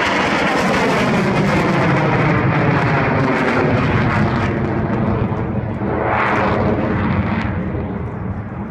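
Eurofighter Typhoon's twin jet engines, loud as the fighter passes, with a falling pitch at the start and easing off slightly near the end.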